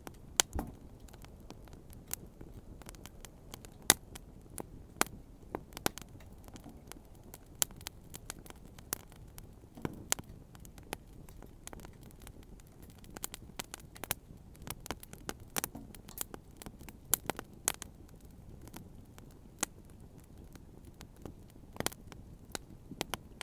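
Wood campfire crackling, with irregular sharp pops and snaps over a low steady hiss of the burning fire.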